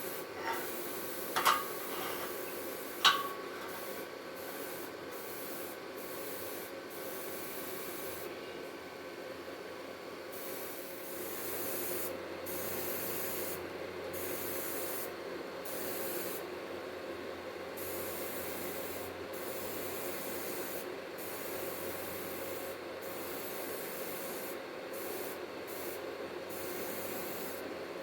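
Stick (arc) welding arc running steadily with an even crackling hiss, after two sharp metallic knocks in the first few seconds.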